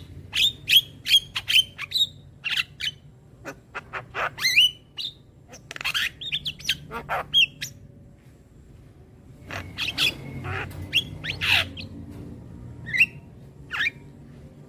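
Javan myna (jalak kebo) calling in a rapid string of harsh squawks, clicks and short rising whistles, pausing for about two seconds midway before the calls start again.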